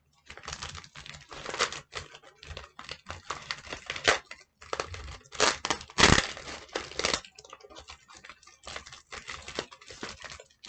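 Crumpled paper crinkling and sticky tape being pulled and torn as a paper muzzle is taped on, in irregular rustles and crackles, loudest about five and a half to seven seconds in.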